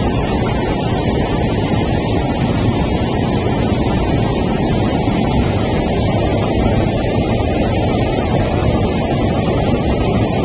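Fast floodwater rushing down a street, a steady, unbroken noise of moving water.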